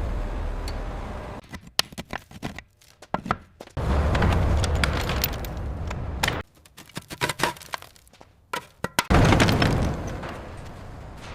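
Heavy metal knocks and clanks from a steel tank being shifted on loading ramps under chain. Two sudden loud, deep rumbling crashes come about four and nine seconds in, each fading away over a couple of seconds.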